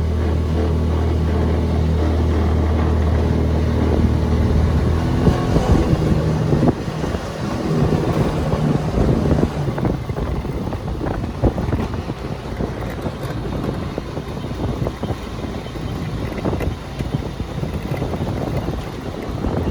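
Small open three-wheeled GoCar running, a steady low engine hum for about the first five seconds, then wind buffeting the microphone over the engine and road noise as the car drives on.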